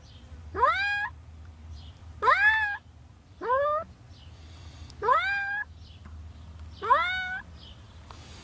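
A cat trapped in concrete up to its head meowing repeatedly: five loud, drawn-out meows, each rising then levelling off, about one every second and a half. A low steady hum runs underneath.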